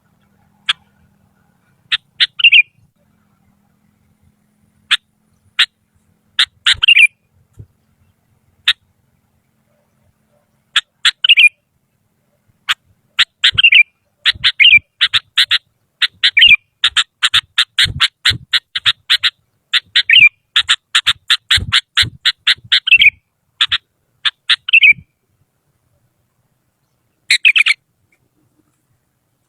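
Sooty-headed bulbul (kutilang) calling in short, sharp, clear notes: scattered singly and in small clusters at first, then a long dense run of rapid chattering notes through the middle, and a last short burst near the end.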